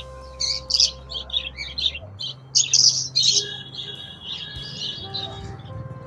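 Caged small birds, Java sparrows among them, chirping busily: many short high chirps overlapping, with a longer trilling call about three seconds in.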